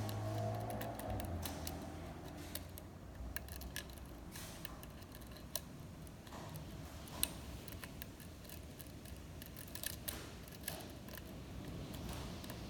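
Lock pick and tension wrench working the pins inside a six-pin pin-tumbler lock cylinder: faint, irregular clicks and light scraping, with one sharper click about seven seconds in.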